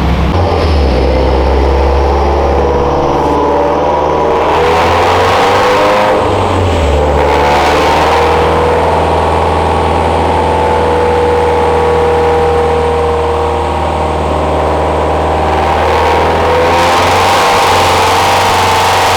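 Car engine running hard under load on a chassis dynamometer during a dyno run. Its pitch holds fairly steady, with shifts about a second in and about seven seconds in. A rush of noise swells in the middle and again near the end.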